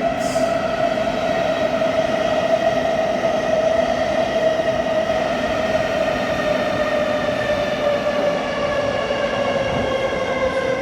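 Thameslink Class 700 electric multiple unit pulling into the platform, its traction motors giving a whine of several tones that falls slowly in pitch as the train slows, over the rumble of the wheels.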